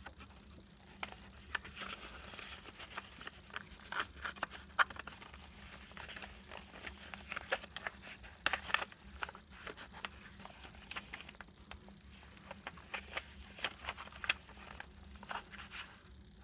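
Paper rustling and crinkling with irregular soft clicks and taps as the pages and tags of a handmade paper junk journal are handled and turned.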